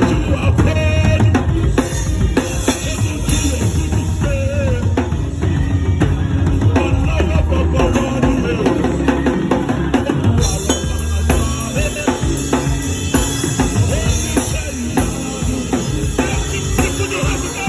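Live drum kit playing with a worship band: bass drum, snare and rim shots driving over other instruments, the sound getting brighter and busier at the top about ten seconds in.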